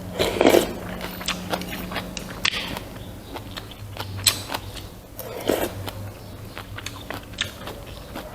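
Close-miked eating sounds: scattered wet mouth clicks and chewing, with two louder noisy bursts about half a second in and about five and a half seconds in, over a steady low hum.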